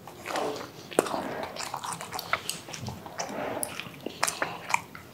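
Two people chewing soft, bread-heavy pizza shawarma, with irregular wet mouth clicks and smacks.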